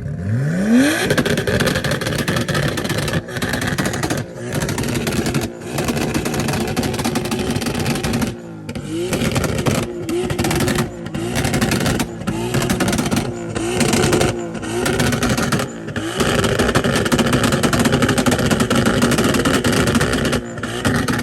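A car engine revs up sharply and is held at high revs, with the revs dipping and recovering and about a dozen brief dropouts along the way.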